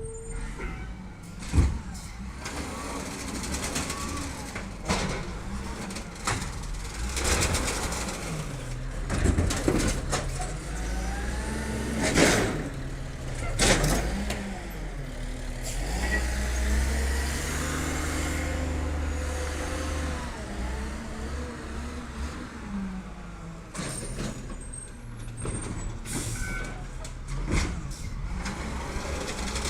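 Garbage truck running on its route, with several sharp air-brake hisses and, midway, the engine revving up, holding higher for a few seconds, then settling back.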